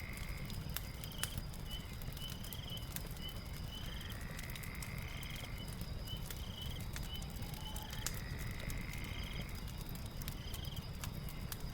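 Night-time nature ambience with a crackling wood fire. Calling night creatures repeat in a pattern: short chirps and a rising call about every four seconds over a steady high whine. Sharp fire crackles are scattered over a low rumble.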